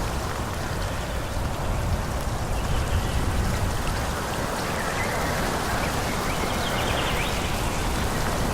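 Wind blowing through forest trees: a steady rushing noise with a deep rumble underneath, and a few faint high chirps about seven seconds in.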